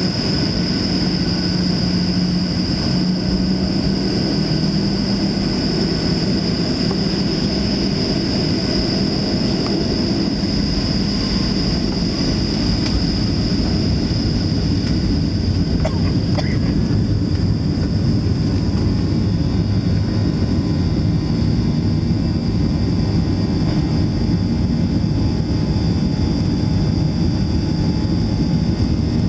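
Boeing 737-700's CFM56 turbofan engines running, heard from inside the passenger cabin: a steady rush of noise under a constant high fan whine and a low hum.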